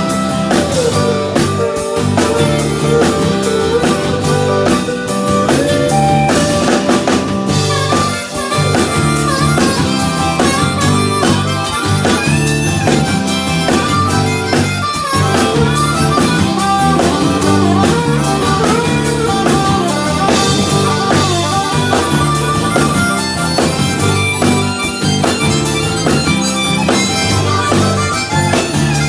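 Country-Americana band playing an instrumental break: a sustained lead line that slides between notes over guitar, bass and drums with a steady beat.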